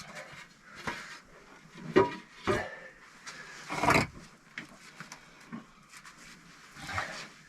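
Irregular knocks and scrapes of hard building materials being handled and set down during work on a brick stove, with the sharpest knocks about two seconds in and a longer scrape around four seconds in.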